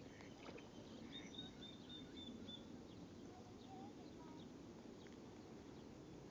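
Faint outdoor ambience with distant birds: a quick run of high, evenly repeated chirps from about one to two and a half seconds in, and a few faint brief calls after.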